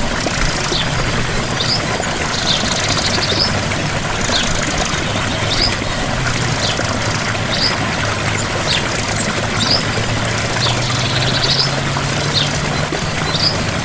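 Gentle waterfall with water pouring in a steady, even rush. Short rising chirps repeat about once a second above it, and a faint low hum runs underneath.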